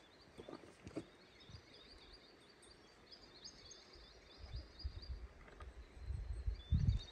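A small songbird singing quick runs of repeated high chirps, with a second run near the end. About four seconds in, low bumps and rumbles start, loudest just before the end.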